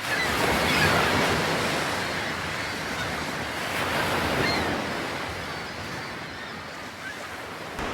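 Sea waves breaking and washing on a beach, swelling about a second in and again around four seconds, then easing off.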